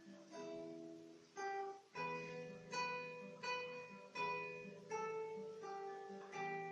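Solo classical guitar playing a slow melody: single plucked notes, about one every 0.7 s, each ringing on over a held bass note.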